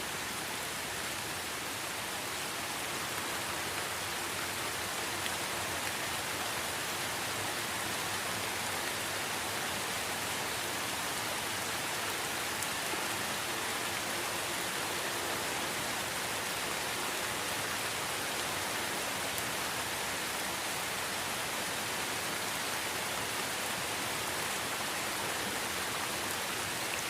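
Steady, even hiss of rain, with no separate drops or changes standing out.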